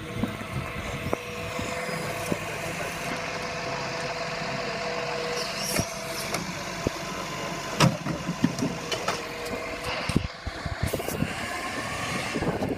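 Heavy truck running, with a steady whine under the engine noise and scattered knocks and clatters.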